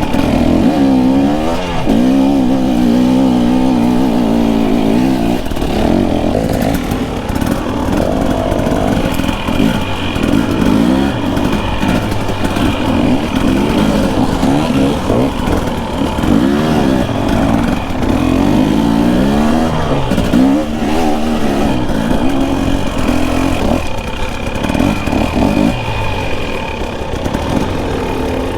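Dirt bike engine being ridden on a trail, revving up and falling back again and again as the throttle is opened and closed.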